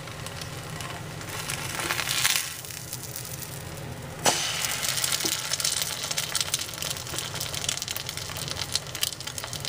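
Egg-in-a-hole toast frying in bacon grease in a cast-iron skillet: a steady crackling sizzle. About four seconds in it is flipped with a spatula, a sharp clack as it drops back into the pan, and the sizzle grows louder.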